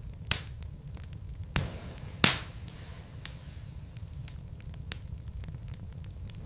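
Wood fire burning in a fireplace, a steady low rumble of flames with logs crackling and popping; three sharp pops stand out in the first two and a half seconds, the loudest about two seconds in.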